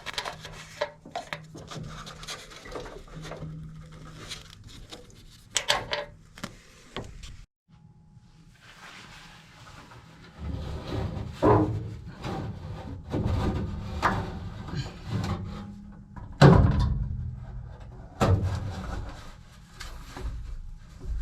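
Handling noises from working a furnace blower assembly loose: irregular knocks, clunks and scraping rubs, with a short break about seven seconds in.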